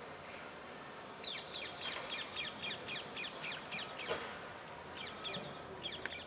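A bird calling in a rapid series of short, high chirps, each falling in pitch, about three to four a second, pausing briefly before a few more near the end.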